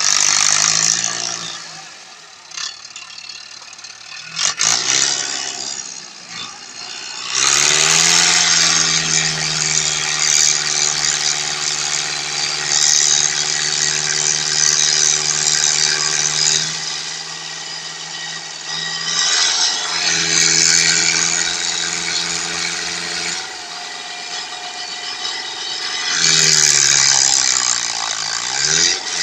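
Tractor engine revving hard and held at high revs for several seconds, easing off, then revving up again in surges, with a knock a few seconds before the first rev.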